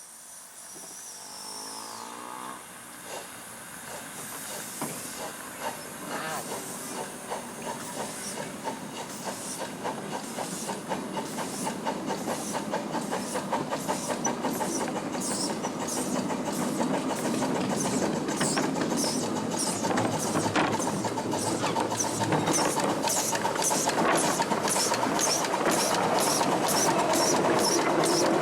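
Miniature steam locomotive working a train: exhaust chuffs over a steady steam hiss, the beats quickening to about two a second and growing steadily louder as it draws near. A short whistle-like tone sounds about a second in.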